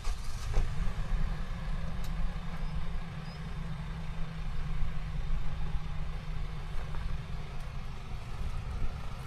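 Off-road vehicle's engine running at low, steady revs while crawling up a steep dirt slope, with a few faint knocks in the first two seconds.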